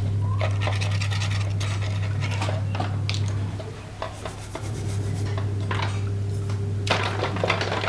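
Gas stove burner parts being scrubbed to shift hard, caked carbon deposits: irregular scratchy rubbing strokes over a steady low hum.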